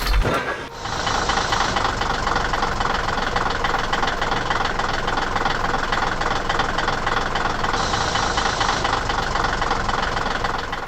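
A motor vehicle's engine running steadily with a fast, even rattle, after a short loud burst at the very start.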